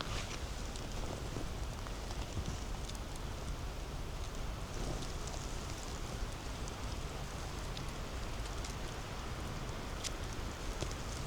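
Footsteps rustling and crackling through forest-floor litter and moss, with a few sharp clicks of snapping twigs.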